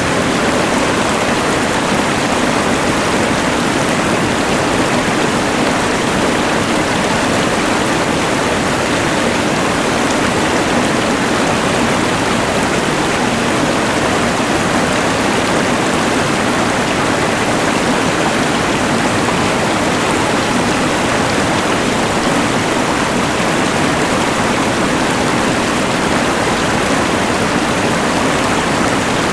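Rushing mountain river mixed with the hiss of a LectroFan white noise machine: a steady, even rush of noise with no breaks or separate events.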